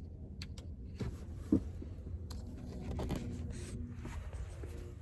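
Handling noise: rustling and scraping with several small clicks, and one sharper knock about one and a half seconds in, over a low steady rumble.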